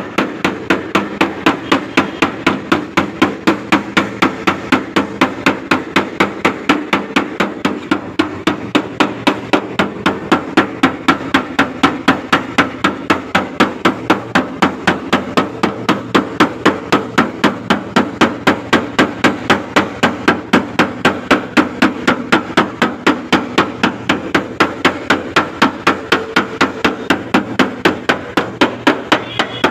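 Hammer beating a dent out of a car's sheet-metal body panel: a steady run of quick, even blows, about three to four a second, each with a short metallic ring.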